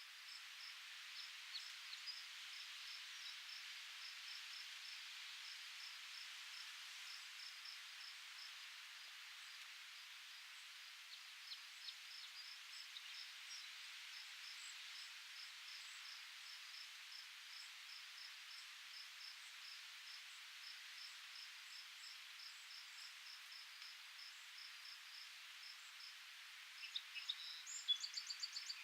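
Faint insects chirping in a steady run of quick, regular pulses over a soft hiss. Near the end a bird gives a short burst of rapid high calls, the loudest sound here.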